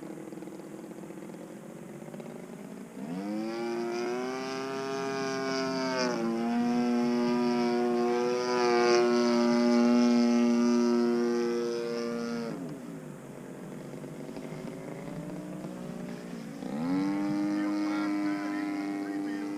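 Single-cylinder two-stroke DLE 35RA gas engine of an RC aerobatic plane in flight. It runs low at first, is throttled up about three seconds in and held high for roughly nine seconds, drops back to a low drone, then opens up again near the end. The top end is freshly rebuilt and is being run gently to break in.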